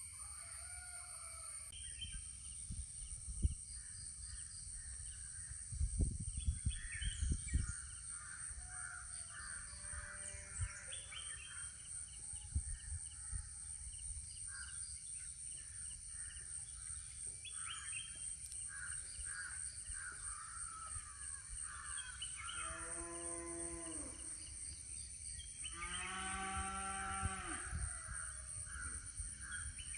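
Rural morning soundscape: birds calling throughout, crows cawing among them, over a steady high insect drone. A cow moos twice, long low calls about 22 and 26 seconds in. A few low thumps come around 6 to 7 seconds in.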